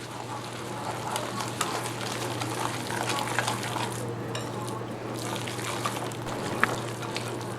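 A spoon stirring curd and semolina together in a bowl into a thick batter, a continuous wet scraping with frequent small clicks of the spoon against the bowl.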